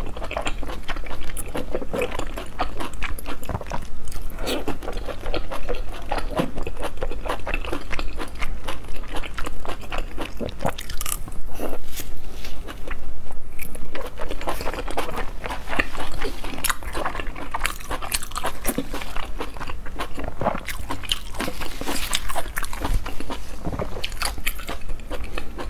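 Close-up mouth sounds of a person chewing and slurping stewed spicy lamb intestines, a steady stream of short sticky clicks and smacks.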